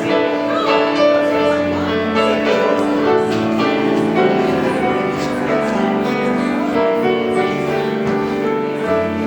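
Piano playing slow music in held chords and sustained notes.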